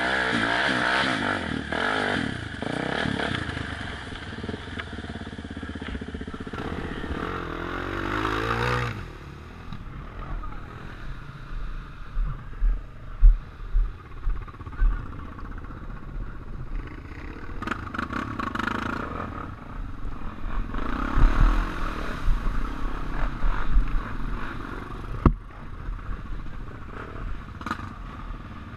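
Off-road motorcycle engines revving hard in mud: one bike runs loud and climbs in pitch for about nine seconds before fading away, then further bursts of throttle come and go.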